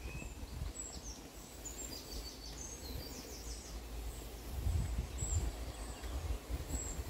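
Small birds chirping outdoors, with a quick run of repeated high notes about two to three seconds in and single chirps later, over an uneven low rumble that grows louder in the second half.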